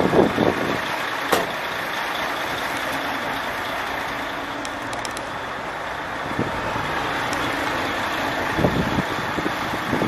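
Truck engine running steadily, with a few short knocks near the start and near the end.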